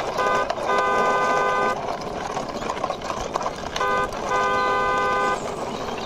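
Electronic toy-car horn beeping a short note then a longer one, twice, the pair repeating about three and a half seconds later, over a steady background rustle.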